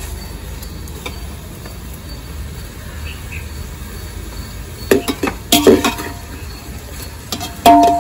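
Metal utensils clanking against a metal cooking pot, each clank ringing briefly, in a cluster about five seconds in and once more near the end, over a steady low rumble.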